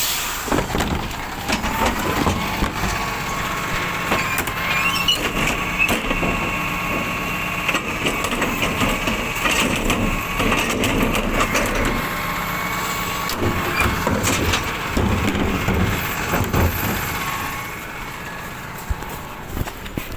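Rubbish truck working, with a steady whine alongside clattering knocks and crushing. The whine fades out near the end.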